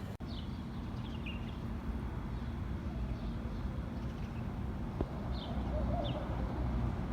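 A few faint, short bird chirps, each a quick falling note, scattered over a steady low rumble.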